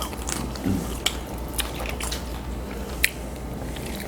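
Close-up eating sounds of a seafood boil: crab shells cracking and snapping in a series of sharp clicks, with chewing.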